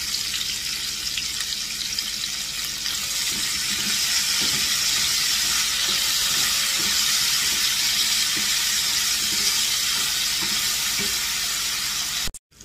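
Diced bell peppers sizzling in hot oil in a frying pan, a steady hiss. From about three seconds in they are stirred with a spatula, with light scraping against the pan, and the sizzle grows slightly louder. The sound cuts off abruptly just before the end.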